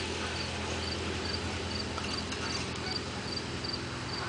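A cricket chirping steadily, short high chirps repeating a few times a second, over a steady low hum.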